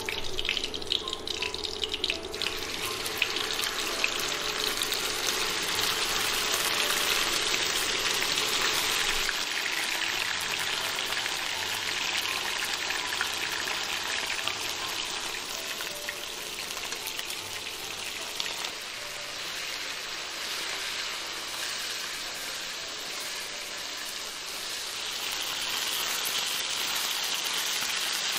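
Marinated beef slices sizzling in hot oil in a wok as they are stir-fried, a steady hiss like rain. It swells a few seconds in as the meat hits the oil, eases somewhat midway and swells again near the end.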